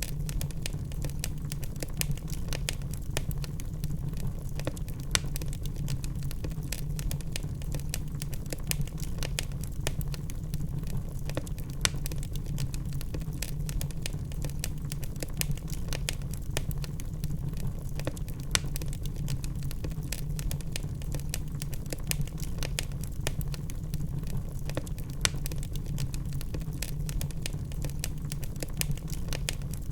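Wood fire burning in a fireplace, logs crackling with many small irregular pops and snaps over a steady low rumble.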